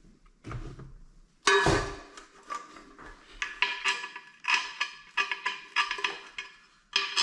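Metal toilet-tank hardware and tools clinking against hard surfaces as tank bolts, washers and nuts are handled: a knock about one and a half seconds in, then a run of light ringing clinks, about two a second.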